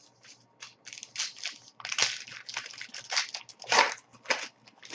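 Crinkly foil wrapper of a hockey card pack being handled and torn open: a run of irregular crackling crinkles, loudest about two seconds in and near four seconds.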